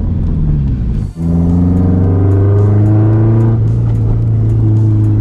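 Nissan Skyline GT-R R34's RB26DETT twin-turbo straight-six running steadily while driving, with a brief sharp drop about a second in.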